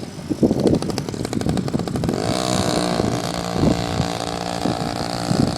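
Mini dirt bike engine running, its pitch settling to a steady note about two seconds in.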